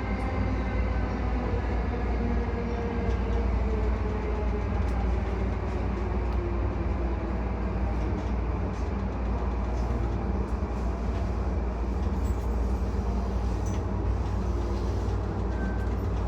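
E235-1000 series electric train running at speed, heard from inside the train: a steady low rumble of wheels on rail, with faint motor tones that slowly fall in pitch.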